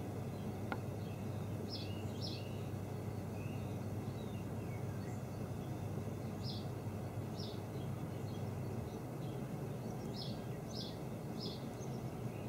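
Steady low outdoor background noise with a songbird giving short high chirps, singly and in pairs, every second or two, and a single faint click about a second in.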